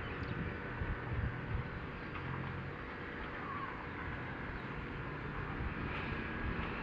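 Wind moving through trees as a steady, even rush, with a faint low hum beneath it.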